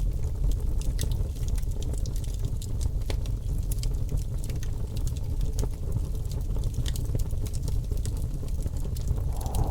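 Wood fire crackling in a fireplace: irregular sharp pops and snaps over a steady deep rumble.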